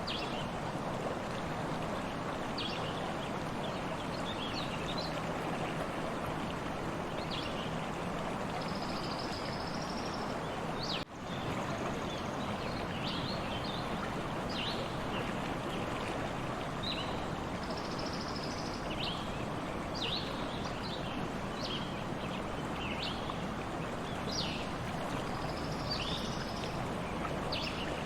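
A stream flowing steadily with small birds chirping over it in short, frequent calls. The sound drops out for an instant about eleven seconds in.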